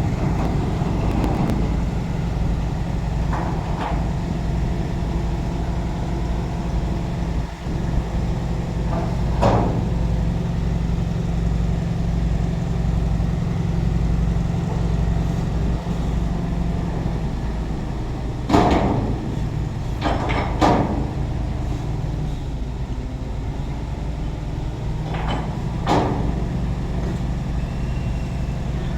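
Container truck's diesel engine running steadily at a low pitch, with a few short sharp knocks or hisses at intervals.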